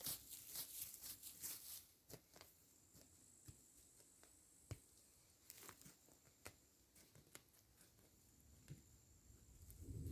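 Faint crackling and rustling, dense for about the first two seconds, then thinning to scattered soft clicks.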